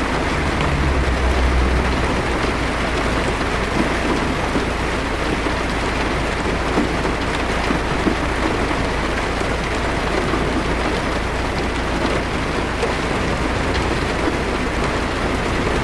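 Heavy rain drumming steadily on a car's roof and windshield, heard from inside the car, over a steady deep drone. A low rumble swells briefly about a second in.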